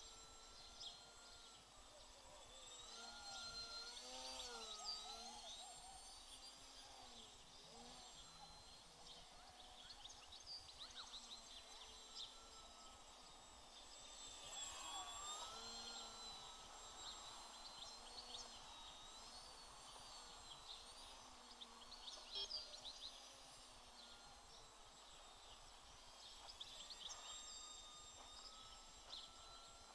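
Faint, distant whine of FPV quadcopter drone motors, its pitch rising and falling smoothly as the throttle changes.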